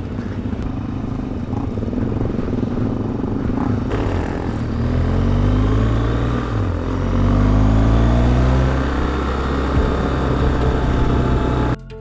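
Several motorcycle engines running together, their pitch rising as they accelerate from about halfway through, loudest a little after that. The sound cuts off abruptly just before the end.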